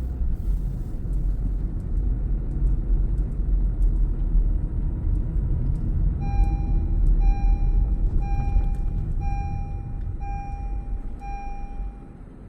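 Car driving on a city street, heard from inside the cabin: a steady low road and engine rumble. About halfway through, a beep sounds six times, about once a second, and the rumble drops near the end.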